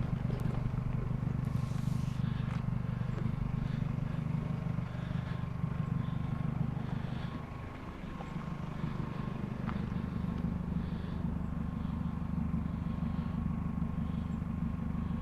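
Car engine running, heard from inside the car as a steady low hum; the engine note falls about halfway through, as when the car slows.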